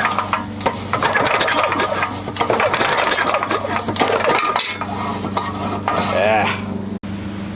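Rattling, rasping mechanical clatter from yanking the loosely fitted recoil pull starter on a 7 hp Tecumseh small engine. The starter shifts and spins against the engine, and the engine does not fire. A short whirring sweep comes near the end.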